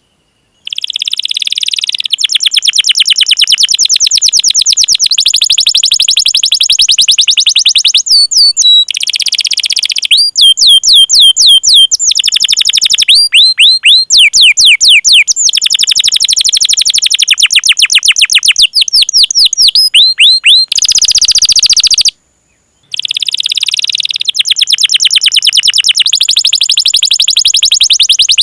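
Domestic canary singing loudly: fast rolling trills alternate with rapid runs of sharp, sweeping 'cuit cuit' call notes. The song breaks off briefly at the very start and again about 22 seconds in.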